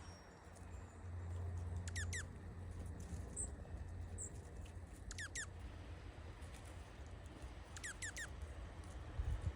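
Small wild birds calling: three quick bursts of two or three fast, down-slurred whistled notes, about three seconds apart, with a couple of thin high chips between them. A low rumble of wind runs underneath.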